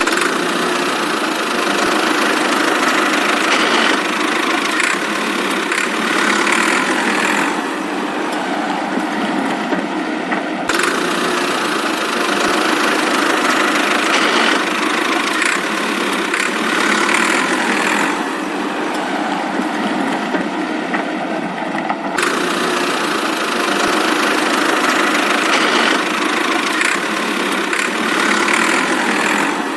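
Tractor engine running steadily, with the same stretch of sound repeating about every eleven seconds.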